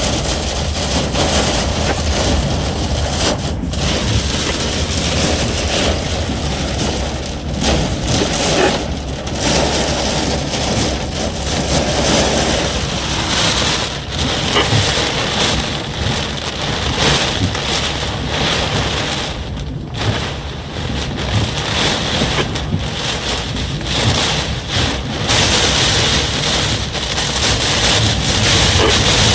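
Thunderstorm: strong wind gusting and buffeting the microphone, mixed with heavy rain, a dense, loud rush that swells and eases in gusts.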